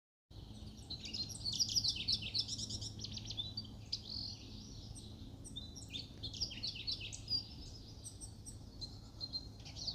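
Lawrence's goldfinch singing a long, jumbled string of quick, high twittering notes that mixes imitations of other species' calls with its own high, tinkling two-syllabled notes.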